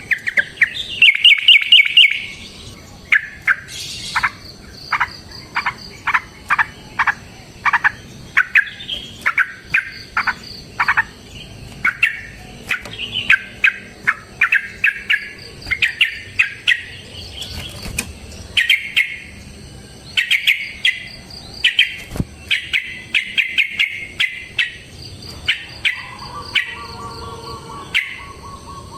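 Yellow-vented bulbul (trucukan) calling, with loud, bubbly chirps in quick repeated runs. A faint steady high buzz, like insects, sits behind it, and a steady tone joins near the end.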